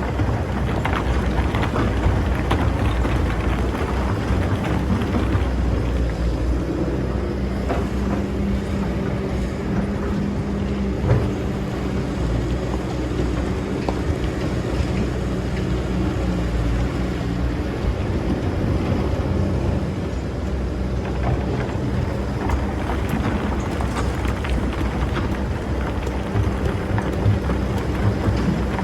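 Excavator engine running steadily with a low hum, with a few brief knocks along the way.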